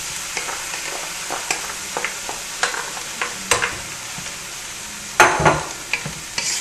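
Freshly added chopped tomatillos frying in hot oil with onion and garlic: a steady sizzle, with a wooden spoon stirring and scraping against the pot in short strokes. A loud knock comes about five seconds in.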